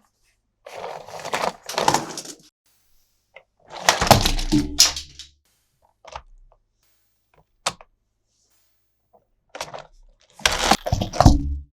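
Three bursts of crackling and knocking handling noise, the kind made by opening and handling a toy and its packaging, with a single sharp click about halfway through.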